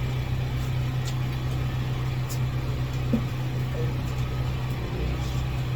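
Steady low mechanical hum, like a motor running at idle, holding even throughout.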